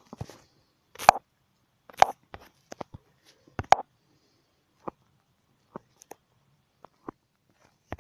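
Irregular light clicks and taps, about one a second, each short and sharp with quiet in between.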